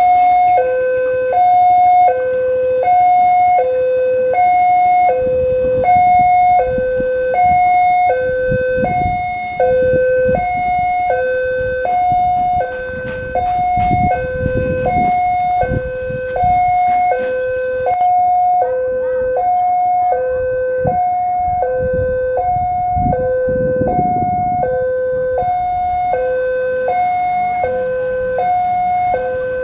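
Indonesian railway level-crossing alarm sounding its two-tone warning, a higher and a lower tone alternating steadily over and over, signalling that a train is approaching and the barrier is closing. Rumbles of passing vehicles swell and fade a few times underneath.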